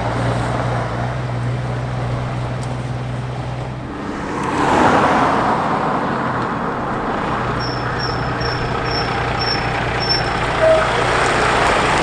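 Heavy truck's diesel engine running steadily at low revs as it passes, with a swelling rush of noise about four to five seconds in. Near the end come six short, evenly spaced high pips and a brief louder tone.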